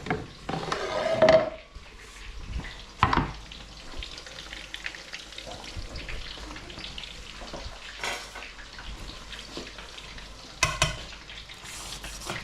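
Chicken bhajis sizzling steadily as they fry in hot oil. A utensil clatters and scrapes against the pan several times, loudest about a second in, with a ringing metal clink near the end.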